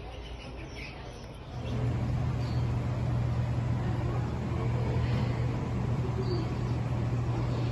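A few faint bird chirps, then about a second and a half in a steady low hum with a noisy rush starts and drowns them out.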